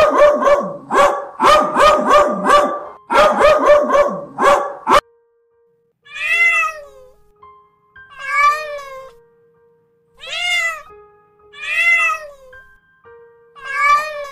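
A cat meowing five times, each meow about a second long, rising then falling in pitch. Before it, a quick run of about ten loud yelping calls, over faint held background music notes.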